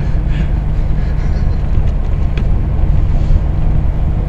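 Mining truck's engine running steadily with a low rumble.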